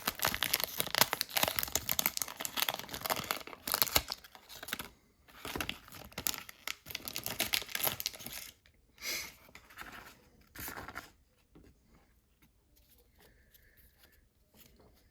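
Paper-and-foil baseball card pack wrapper being torn open and crinkled by hand: a dense run of crackling for the first few seconds, then shorter spells of rustling that stop about eleven seconds in.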